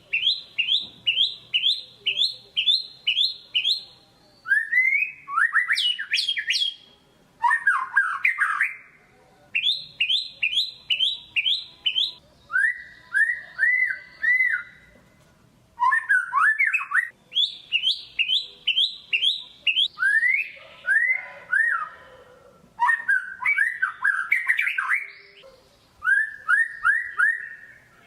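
White-rumped shama (murai batu) singing loudly in full song. It sings a string of varied phrases, each a quick run of several repeated notes, about four a second, with a new motif and pitch every one to three seconds.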